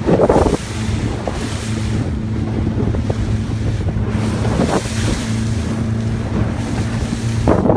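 Boat engine running at a steady hum, with water rushing past and wind buffeting the microphone in loud gusts at the start and near the end.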